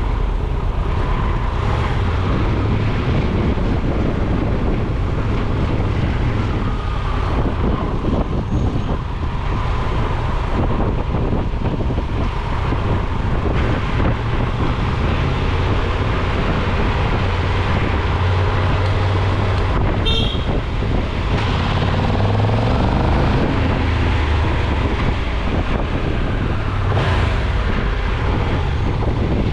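Steady engine and road rumble of a car being driven, with a brief high chirp about two-thirds of the way through.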